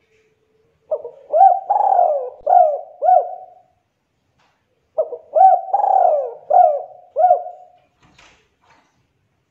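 Spotted dove (tekukur) cooing: two phrases, each of about five throaty coos that rise and fall in pitch, with a pause of about a second and a half between them.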